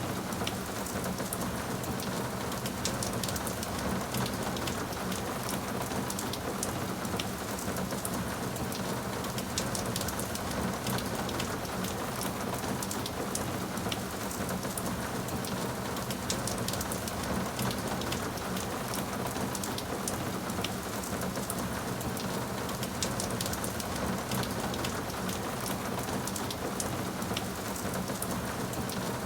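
Steady rainfall, an even hiss of rain with many small, sharp drop impacts pattering throughout.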